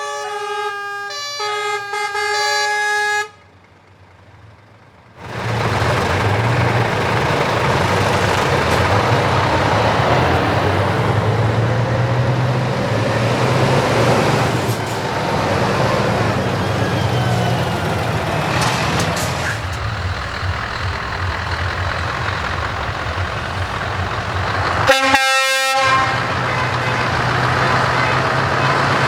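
Multi-tone truck air horns sounding a chord for about three seconds, then cutting off. After a short lull, heavy diesel trucks run loud with a deep exhaust rumble, broken by another short multi-tone horn blast near the end.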